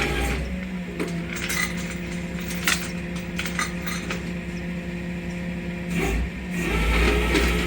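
Flatbed tow truck running with a steady mechanical hum, with a few sharp metallic clanks. A lower rumble swells near the end.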